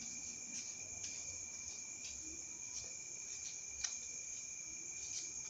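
Steady high-pitched insect trilling at two unbroken pitches, with a few faint taps and rustles of paper being handled.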